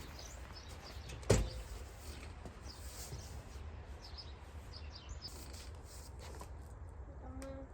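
Small birds chirping faintly over a steady low rumble of wind, with one sharp knock about a second in and a short pitched call near the end.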